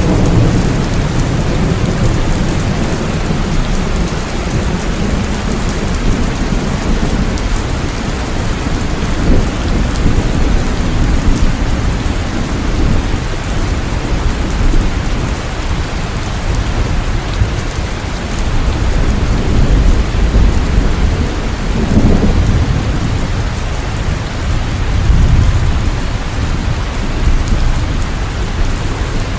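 Steady heavy rain, with several low rumbles of thunder swelling up through it, the clearest a little past the middle and again near the end.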